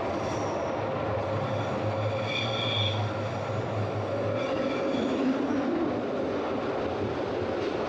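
Glacier Express train running, heard from inside the carriage: a steady rumble of wheels on rails, with brief high squeals about two and five seconds in.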